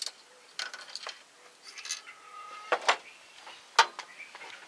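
Metal tools and engine parts clinking and clanking against each other a few times, in separate sharp knocks, during hand work on a Ford 302 V8 teardown.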